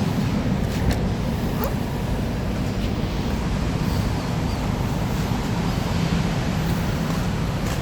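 Steady low rumble with a wind-like hiss, the running noise of a car, with a few faint clicks.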